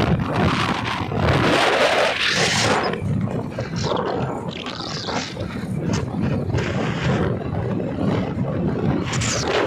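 Wind buffeting the microphone of a moving bike in uneven gusts, over a steady low rumble.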